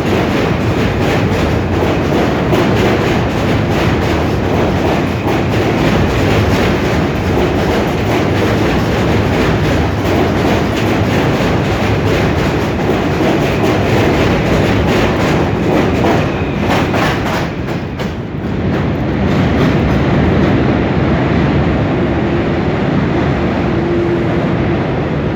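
R160 New York City subway train departing, its wheels clattering over rail joints with a steady rumble. The noise dips briefly about eighteen seconds in, and faint steady tones come in near the end.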